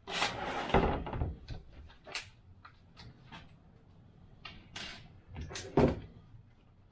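Handling noises as 3D-printed plastic model-aircraft parts are fitted together: a rustling scrape at the start, then scattered sharp clicks and knocks, the loudest pair shortly before the end.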